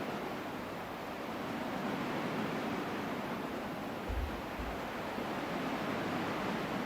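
Ocean waves washing on a shore: a steady, even surf noise that swells gently. A brief low thump about four seconds in.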